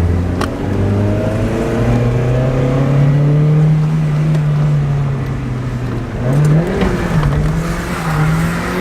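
Mazda Miata's four-cylinder engine revving up hard, its pitch climbing over the first few seconds and then holding high. About six seconds in the revs jump up and down briefly before settling again, typical of a car being driven through a slide on wet pavement.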